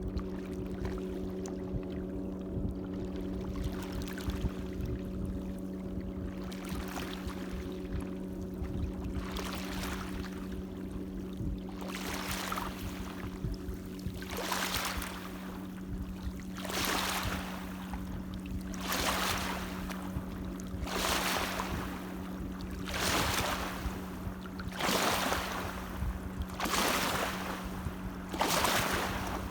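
Light waves washing in, faint at first, then swelling and receding about every two seconds from around the middle on.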